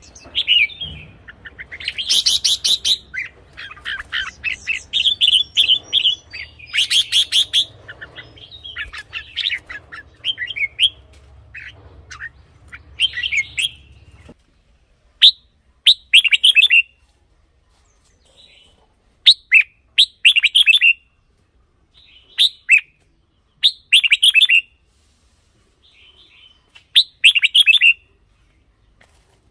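Red-whiskered bulbul singing: short, quick, bright whistled phrases, crowded together in the first half. About halfway through, the faint background hum stops abruptly, and after that the phrases come singly every few seconds.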